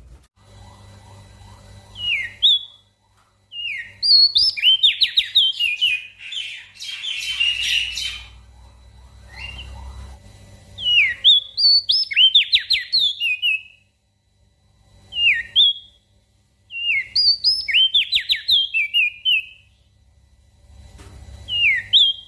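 Crested white-eye (opior jambul) singing in bursts: short phrases of quick sweeping, chirping whistles, repeated after pauses of a second or two, over a steady low hum.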